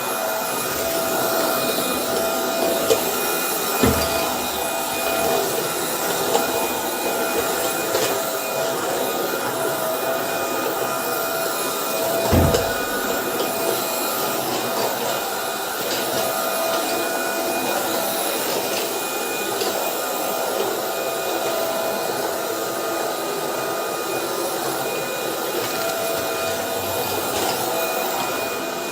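Roborock Dyad Pro wet-and-dry cordless floor vacuum running steadily, a constant whir with a steady whine in it. Two dull knocks, one about four seconds in and a louder one about twelve seconds in.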